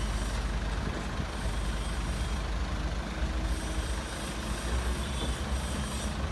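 Heavy diesel engine of earthmoving machinery running steadily with a deep low rumble.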